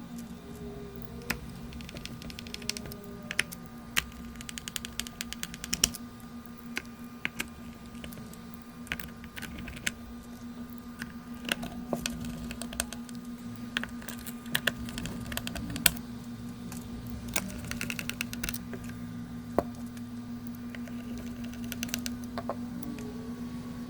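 Irregular sharp clicks and taps, some in quick runs, over a steady low hum.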